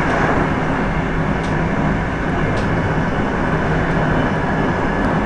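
Express train running at high speed, heard from the driver's cab: a steady, loud rumble of wheels and running gear on the rails with a low hum. Two faint ticks come about one and a half and two and a half seconds in.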